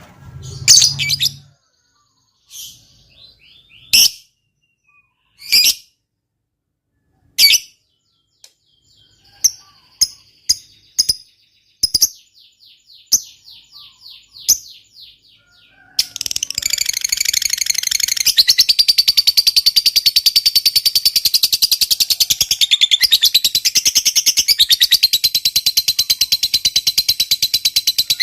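Lovebird calling: scattered sharp chirps and short rattling runs. About 16 seconds in, these give way to a long, unbroken rapid chattering trill, the 'ngekek panjang' prized in fighter lovebirds.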